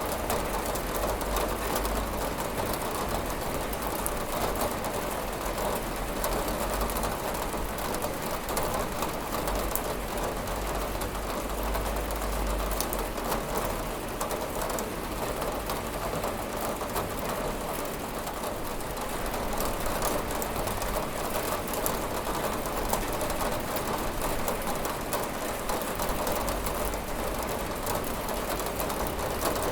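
Steady rain with dense pattering drops tapping on a window pane, over a low rumble.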